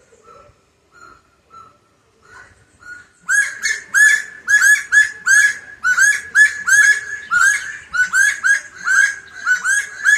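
Saracura (wood-rail) calling: a few soft, spaced notes, then from about three seconds in a loud, rapid series of repeated calls, about three a second.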